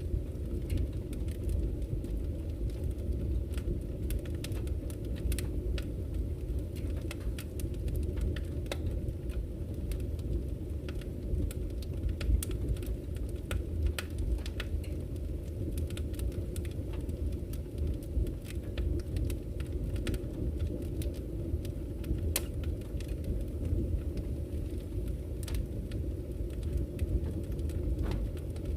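Campfire crackling with irregular sharp pops and snaps over the low, steady rush of a flowing river.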